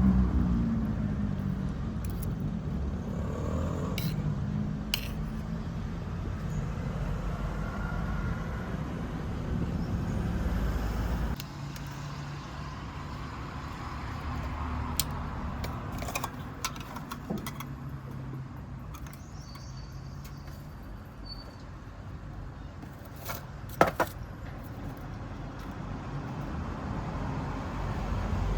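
Street-food stall ambience: a steady low rumble with scattered sharp clicks and clinks, the rumble dropping a little about eleven seconds in and one louder click near the end.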